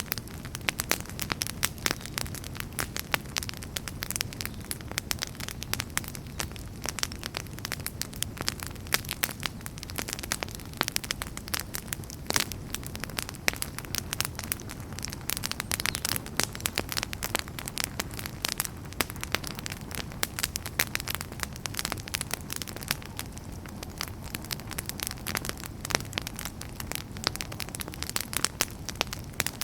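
Wood campfire burning and crackling: dense, irregular snaps and pops over a low steady rumble of the flames.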